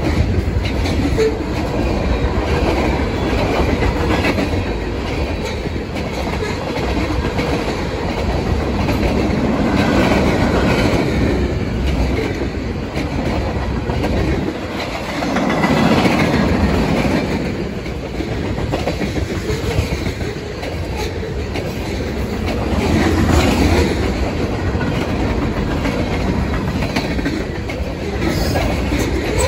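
A freight train's coil cars, tank cars and covered hoppers rolling past close by, their steel wheels running on the rails in a continuous loud rumble that swells and eases every several seconds.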